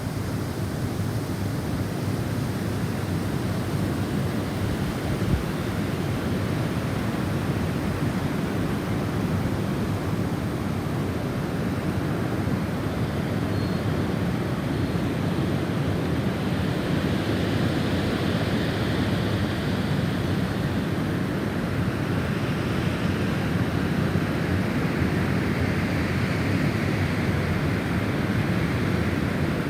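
Snowstorm wind blowing as a steady rush, swelling in gusts around the middle and again near the end.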